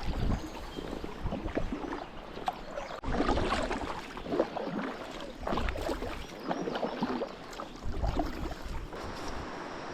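Kayak on a moving river: irregular splashes of paddle strokes and water rushing past the hull, with low gusts of wind on the microphone. The sound changes abruptly about three seconds in and settles to a steadier rush near the end.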